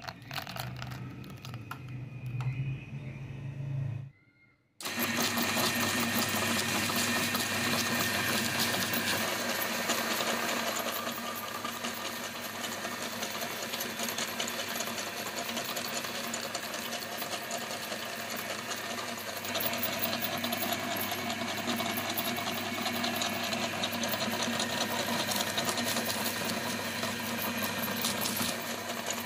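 Electric meat grinder running steadily with a constant motor hum, grinding meringue cookies. It stops briefly about four seconds in, then runs on.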